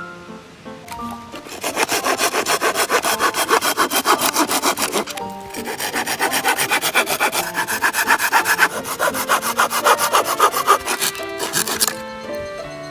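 A compact folding pruning saw cutting through a piece of firewood in quick, rhythmic back-and-forth strokes. The cutting comes in two runs, with a short pause about five seconds in, and stops near the end.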